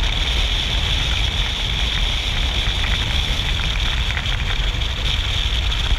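Steady wind rush and low road rumble from a moving motorcycle, with no sharp knocks or changes.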